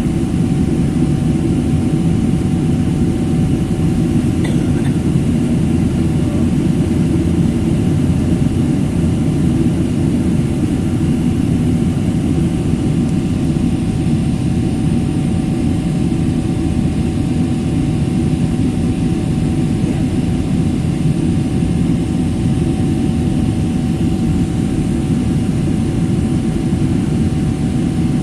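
Steady drone of a jet airliner heard inside the cabin: an even low rumble with a faint steady whine above it, unchanging throughout.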